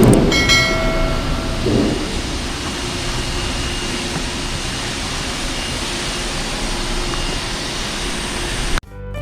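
Steady vehicle noise, an even rumbling hiss, with a short pitched beep about half a second in.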